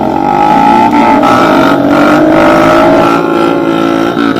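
Small pit bike motorcycle engine running under throttle, its pitch climbing steadily with a few brief breaks.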